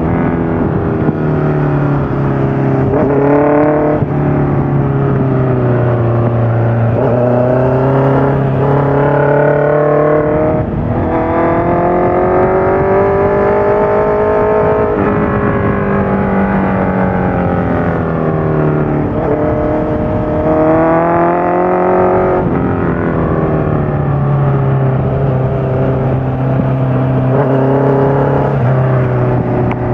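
Honda CBR650F's inline-four engine through a full Akrapovic exhaust system with the dB killer fitted, running continuously as the bike is ridden. Its pitch climbs and drops again and again as the revs rise and fall.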